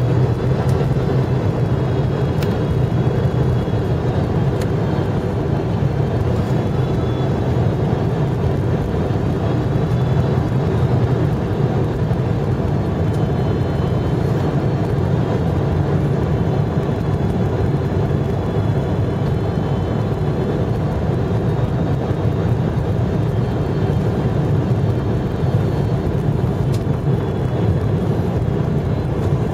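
Steady low rumble of an airliner's cabin noise, engines and airflow heard from a passenger seat around landing, with no sudden knocks.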